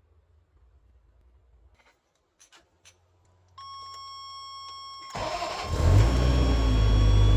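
Ferrari 348 tb's V8 engine cranked and started about five seconds in, then running loudly, on a freshly replaced battery. Before it come a few light clicks and a steady beep lasting about a second and a half.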